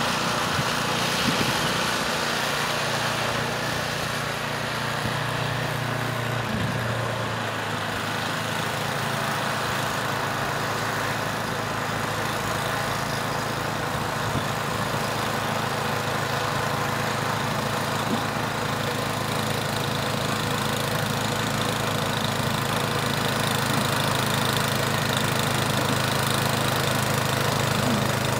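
Gas snowblower engine running steadily while clearing deep snow, its note dropping a little about six seconds in.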